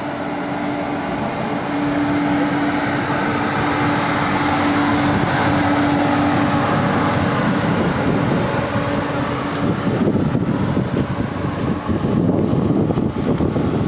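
Indian Railways WAG-9 electric freight locomotive running past close by, giving a steady hum. About ten seconds in the hum gives way to the rumble and rattle of the freight wagons' wheels rolling past on the track.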